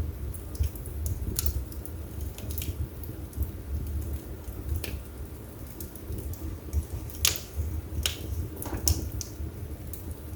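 Wood fire burning in a fireplace: a low steady rumble of the flames with irregular crackles and pops from the burning logs, the sharpest few about seven to nine seconds in.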